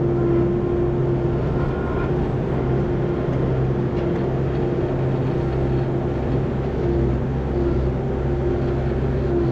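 A vehicle engine running steadily at constant speed, an even drone with a low hum and a steady higher tone over it.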